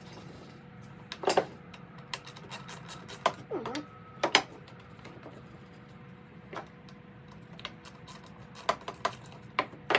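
Irregular clicks and knocks of hand tools and small metal parts on a Stihl BR340 leaf blower being taken apart by hand, with a brief squeak a few seconds in, over a steady low hum.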